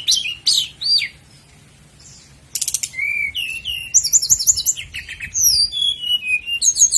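Common nightingale singing: a quick phrase of down-slurred notes ends about a second in. After a pause of about a second and a half, a long varied run of song follows, opening with a rapid dry rattle and going on into whistled slurs and fast trills.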